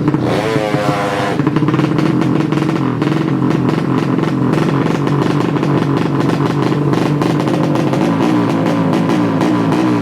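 Drag-race motorcycle engine, a Yamaha Jupiter Z bored to 200cc, running loudly with a brief rev about half a second in.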